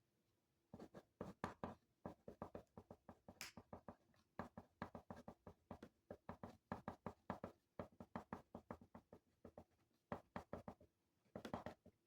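Faint pen or pencil writing on paper: a quick, irregular run of short strokes and taps, several a second, with brief pauses.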